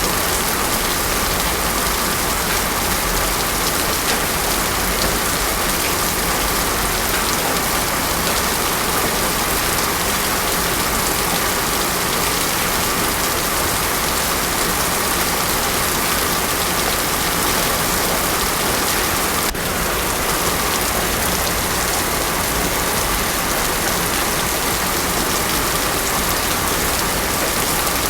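Heavy rain pouring steadily onto a paved road, a dense even hiss of drops, with a faint tick and a momentary dip about two-thirds of the way through.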